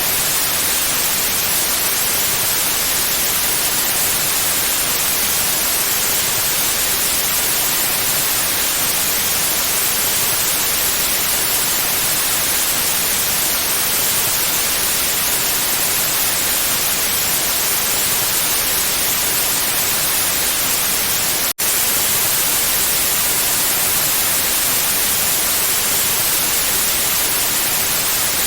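Steady white noise, an even hiss with no tones or rhythm, broken once by a split-second dropout about three-quarters of the way through.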